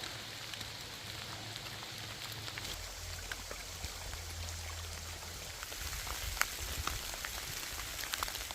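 Rain falling steadily, with many small sharp drop impacts ticking over an even hiss.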